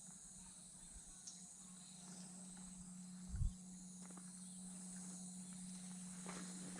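Faint forest ambience: a steady high-pitched insect drone with a steady low hum beneath it, and a single short low thump about halfway through.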